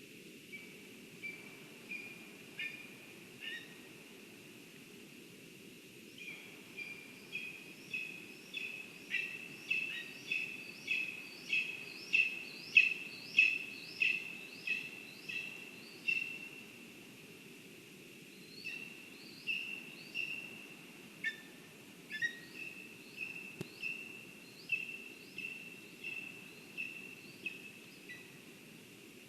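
A bird calling in long series of short, high, repeated notes, about two or three a second over a steady low background hum; the notes build to their loudest in the middle, pause briefly, then carry on more softly.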